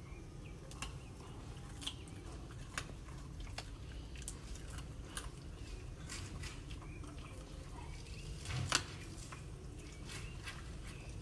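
Dog gnawing on a bone: scattered faint crunches and clicks over a low steady hum, with a louder knock near the end.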